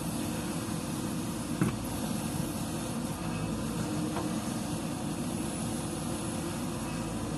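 Heavy earthmoving machinery's diesel engine running steadily, with one sharp knock about one and a half seconds in.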